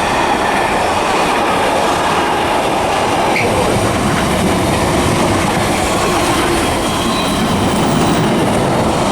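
A train running through the station close by: steady, loud wheel-on-rail rumble with clattering over the rail joints.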